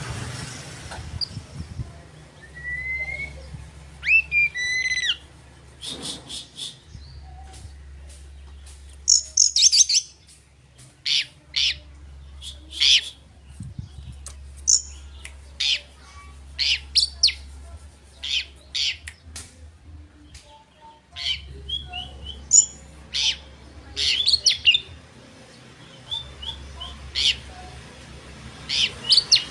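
Oriental magpie-robin (kacer) singing: a varied run of clear whistled glides and sharp, quick chirps, delivered in bursts with short pauses between phrases.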